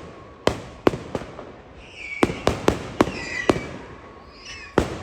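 Fireworks display going off: a run of about nine sharp bangs at irregular intervals, several close together in the middle, each trailing a short echo.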